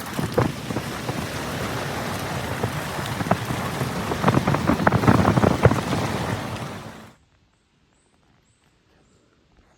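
Dense patter of many small taps over a steady hiss, like rain on a surface, growing louder about four seconds in, then cutting off abruptly about seven seconds in.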